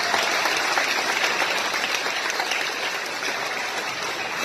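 Audience applauding steadily, dense clapping that gradually fades toward the end.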